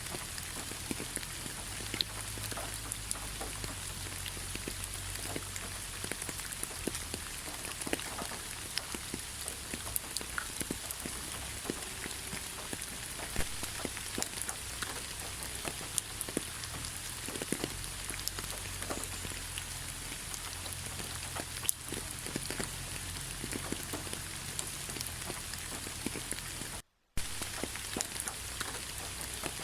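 Steady rain falling on a forest road, with many separate drops tapping close by over the even hiss of the rain. The sound cuts out completely for a split second near the end.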